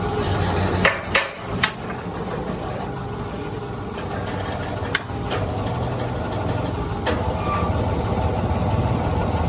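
Hydraulic press and its pump motor running steadily with a low hum, with sharp metal knocks: a few about a second in, and single ones around five and seven seconds in.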